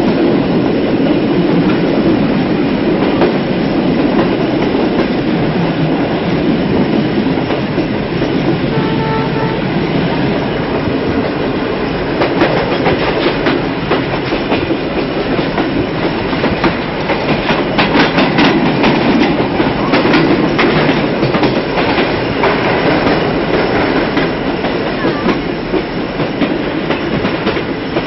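Passenger train running on track, heard from an open carriage doorway: a steady rumble and rush of wheels on rail. The wheels clatter over rail joints, with the clickety-clack busiest in the second half.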